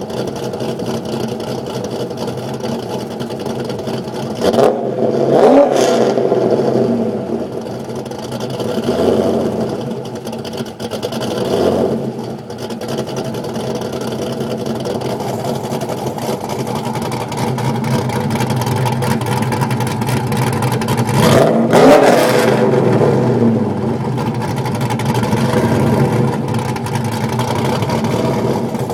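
Cammed LS1 V8 of a 2002 Pontiac Trans Am WS6, running through a Magnaflow Tsunami exhaust with a cutout, idling and revved several times. The two strongest revs come about five seconds in and again near twenty-two seconds, with smaller blips in between.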